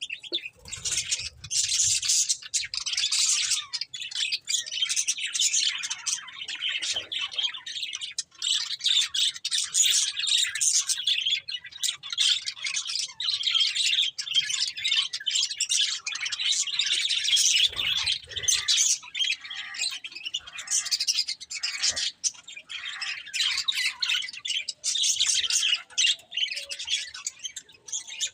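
Pet budgerigars chirping and warbling without a break, a dense chatter of rapid high chirps with some harsher squawks mixed in.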